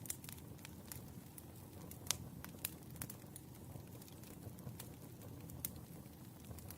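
Wood fire crackling: a low steady rumble of the flames with irregular sharp pops and snaps, the loudest about two seconds in.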